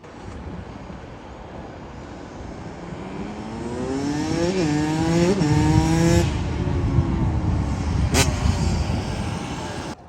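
Dirt bike engine revving as it rides by, its pitch climbing with two quick jumps, then holding steady. It grows louder until about six seconds in and then fades, with a sharp click near the end.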